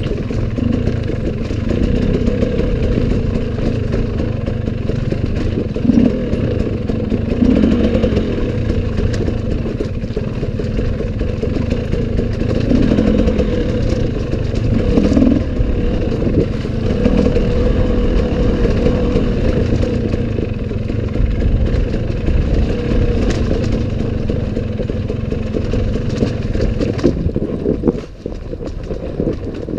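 Enduro dirt bike engine running under load as it is ridden, its note rising and falling with the throttle. The sound drops in level near the end.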